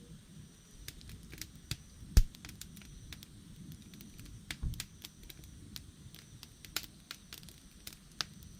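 Wood campfire crackling, with irregular sharp pops over a low rumble of burning; the loudest pop comes about two seconds in, and a small cluster of pops about halfway through.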